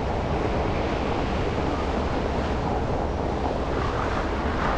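Steady road noise from a car driving on snowy city streets: an even rushing hiss of tyres and traffic with a low rumble underneath.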